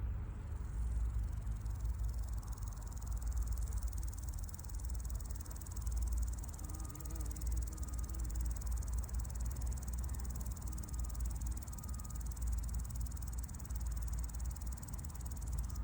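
Male lesser marsh grasshopper stridulating, a steady high-pitched rasping song, over a low rumble.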